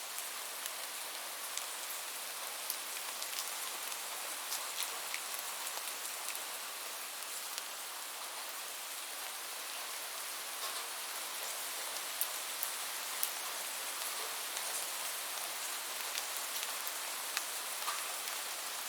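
Steady rain with the scattered ticks of individual drops hitting a surface.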